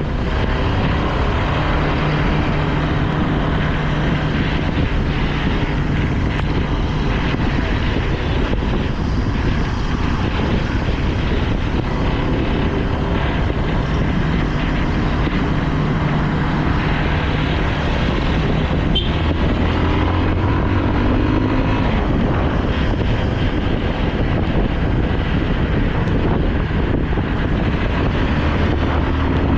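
Motorcycle engine running while riding, its pitch rising and falling a few times with the throttle, under steady wind and road noise.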